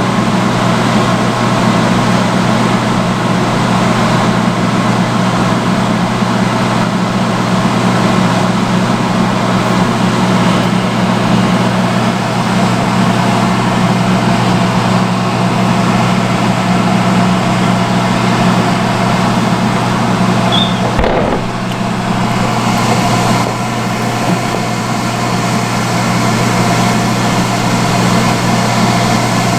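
Vintage salon hood hair dryer running on its highest setting: a steady blower-fan hum with a rush of air. A brief knock about two-thirds of the way through.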